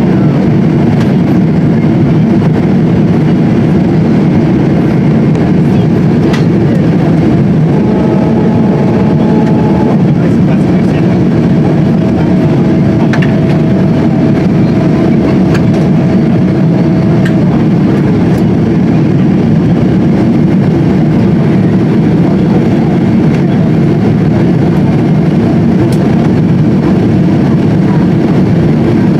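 Steady, loud cabin noise inside a Boeing 777-200 airliner: jet engines and airflow drone without a break, with a faint steady tone for several seconds in the middle.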